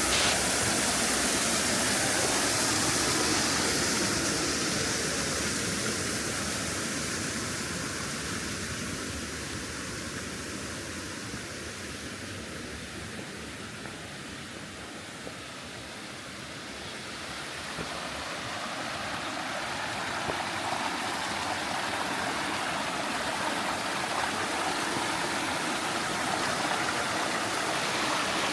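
Stream water rushing over rocks in a steady wash, fading to its quietest about halfway through and swelling again toward the end.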